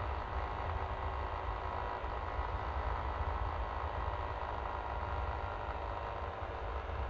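Yamaha Aerox V3 scooter's 155 cc single-cylinder engine running at a steady pitch, under a strong, fluttering low rumble.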